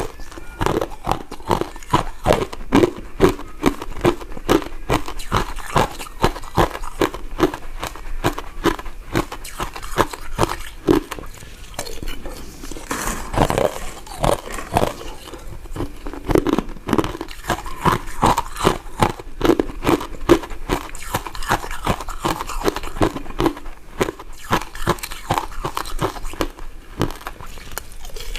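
Close-miked eating of soft, chewy powder-coated candy: a steady run of wet bites, mouth smacks and chewing clicks, two to three a second.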